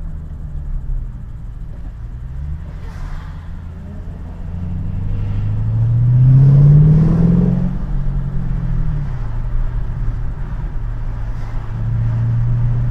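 Ford Mustang's engine on the move. It pulls up through the revs from about four seconds in to its loudest point around seven seconds, then eases off and settles back to a steady cruise.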